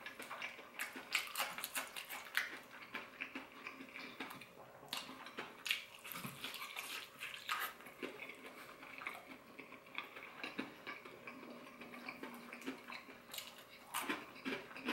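Close-up chewing of extra-crispy, honey BBQ-glazed fried chicken: irregular crunches and wet, sticky mouth sounds, with the meat torn apart by hand along the way.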